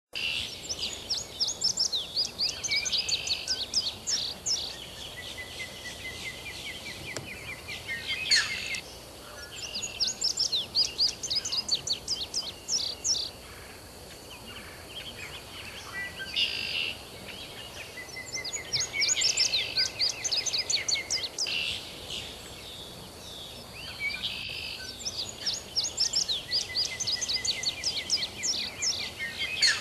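A songbird singing outdoors: four bouts of rapid, high, chirping notes, each lasting about four seconds, with pauses between. There are two brief noise bursts over a steady low background hiss.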